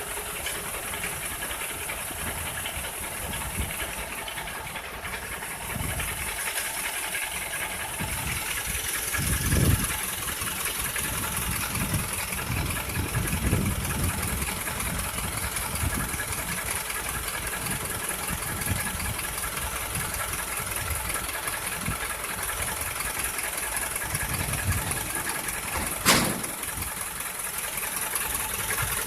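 A vehicle engine running steadily, with a few low thumps and one sharp knock near the end.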